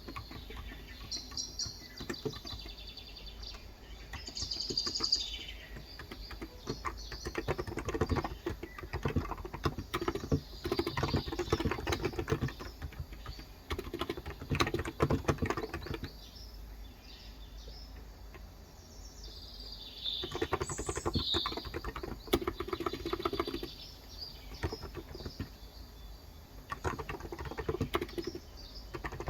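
Typing on a Cox Endeavor electro-capacitive (non-contact) tenkeyless keyboard with light 35 g switches, in runs of rapid keystrokes with a pause of a few seconds in the middle. Birds chirp in the background, most clearly about five seconds in and again about twenty seconds in.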